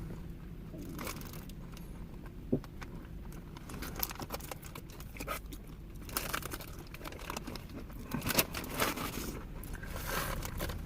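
Food packaging crinkling and rustling in short bursts as it is handled, busier in the second half, with one sharp click a couple of seconds in, over a steady low hum.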